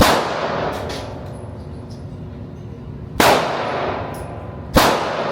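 Three gunshots, the second about three seconds after the first and the third a second and a half later. Each is followed by a long echo that dies away slowly.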